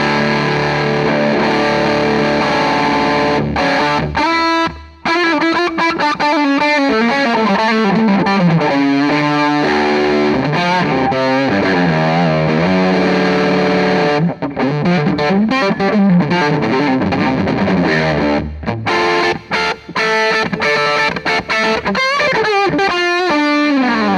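Electric guitar played through an EarthQuaker Devices White Light Legacy overdrive pedal set for high gain, into a Hughes & Kettner Tubemeister tube amp. It rings out distorted chords, moves into a fast single-note lead run with string bends, returns to chords, and ends on a note sliding down in pitch.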